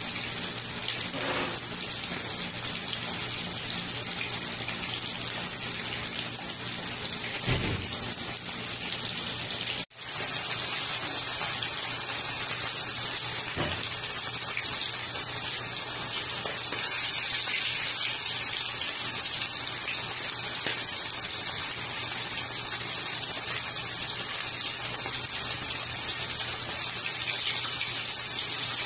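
Chicken pieces sizzling steadily in hot oil in a frying pan, a continuous crackling hiss. The sound drops out for an instant about a third of the way in, then carries on.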